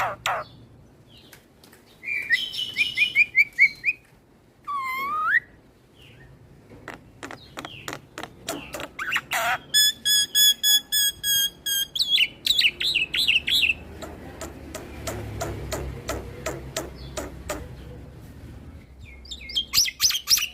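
Black-winged myna (jalak putih) singing a varied song: quick series of chirps, a swooping whistle, runs of sharp clicks, a fast buzzing trill and chattering phrases, separated by short pauses.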